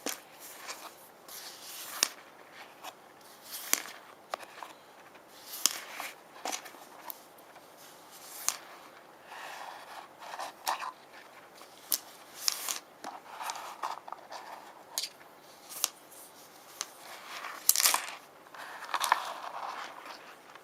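Small rune stones being handled, tapped and scratched with fingernails: irregular sharp clicks between short scraping rubs.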